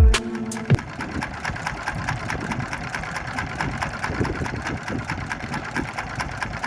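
Small fishing boat's engine running steadily, a rapid even ticking of about eight beats a second over a low rumble. The tail of a music track cuts off in the first second.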